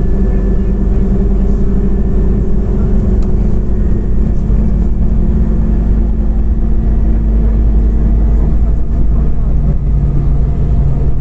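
Scania OmniCity CNG city bus heard from inside the passenger cabin while driving: a steady engine drone with road noise. The engine's pitch steps down near the end.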